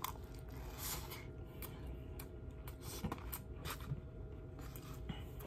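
Faint mouth sounds of someone chewing a mouthful of pancit noodles and rice, with scattered soft clicks. A metal spoon scrapes in a plastic takeout container of rice.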